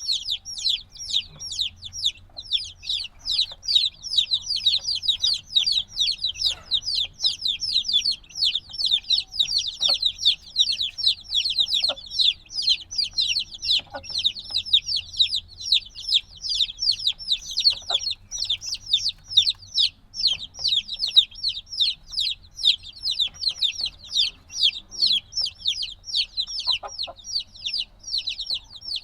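A brood of chicks a few days old peeping constantly, many rapid high downward-sliding peeps overlapping. This loud, nonstop peeping is the distress call of young chicks wanting warmth from a mother hen.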